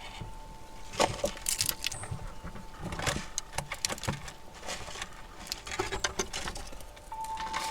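Squirrels feeding on a feeder platform: irregular clicks, taps and scratches of claws and of nuts and seed being handled, in quick clusters. A thin steady tone runs underneath and grows louder near the end.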